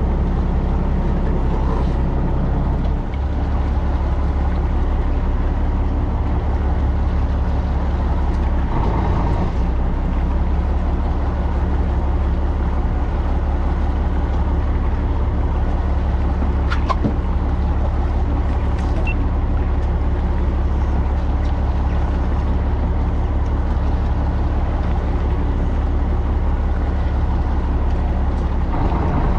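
A fishing boat's engine running steadily, a low drone, with a brief click about two-thirds of the way through.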